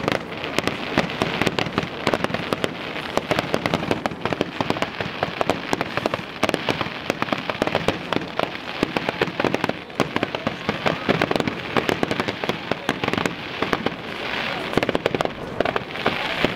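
Fireworks going off: a dense, unbroken run of rapid cracks and bangs.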